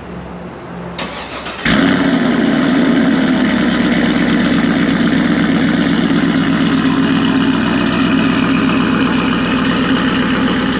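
Chevrolet TrailBlazer SS's 6.0-litre LS2 V8 cold-starting through a new Corsa exhaust with headers, X-pipe and dual Corsa Extreme mufflers. It catches about a second and a half in, loud at once, and settles into a steady idle.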